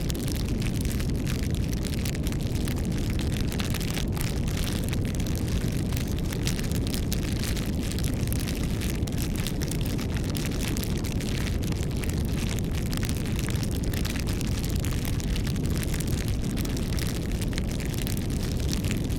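Wood fire burning: a steady low rushing of flames with frequent small crackles and pops from the burning wood.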